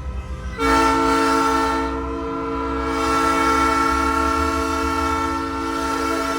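Nathan Airchime P3 three-chime train horn on a big rig, sounding one long chord blast that starts about half a second in and is held for about six seconds, over a low rumble.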